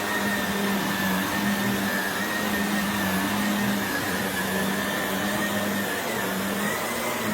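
Shark vacuum cleaner running steadily, its motor giving a high whine over a rushing airflow and a low hum. The whine wavers slightly in pitch as it is worked over the floor.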